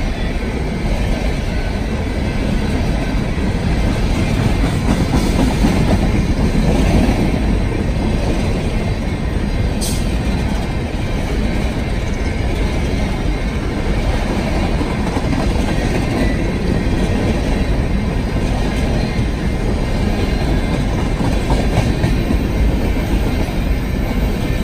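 Freight train cars rolling past: a steady, loud rumble of steel wheels on the rails, with one short sharp click about ten seconds in.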